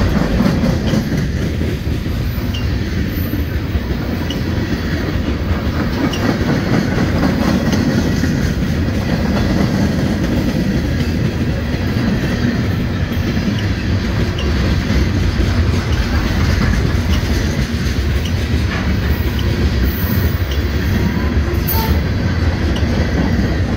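Freight train cars (hoppers, tank cars and coil cars) rolling past close by: a steady, loud rumble of steel wheels on rail, with faint regular clicks.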